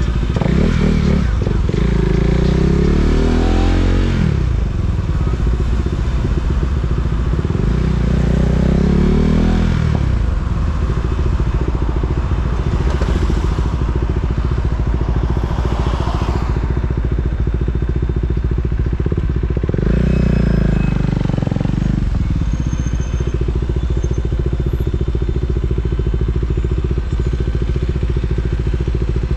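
KTM Duke 390's single-cylinder engine idling steadily, with the revs rising and falling three times: about a second in, around eight seconds in, and around twenty seconds in.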